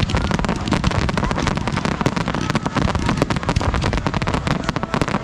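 Fireworks going off in a dense, continuous run of bangs and crackles, many each second.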